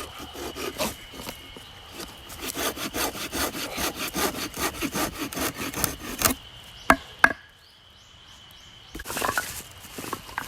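Hand saw cutting through a fallen tree in fast, even back-and-forth strokes, stopping a little after six seconds in. Two sharp knocks follow, and then a short rustling burst near the end.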